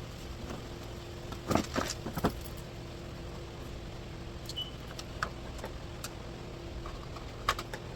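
Metal clinks and rattles of tools and parts being handled, a cluster of them about two seconds in and single sharp ones later, over a steady low hum.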